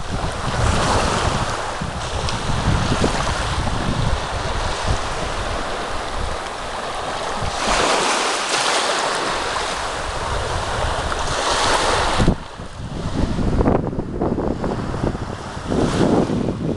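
Sea waves breaking and washing up the shore, with wind buffeting the microphone. A hissing surge of surf builds through the middle and cuts off suddenly about twelve seconds in.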